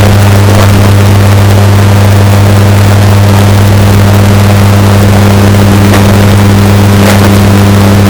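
Washing machine running with a steady low hum, heavily bass-boosted and distorted so that it is very loud. A few faint clicks sound over the hum.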